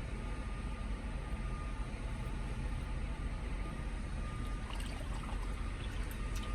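Steady low engine rumble with a constant background hiss, coming in through open truck windows. A few faint clicks come in the second half.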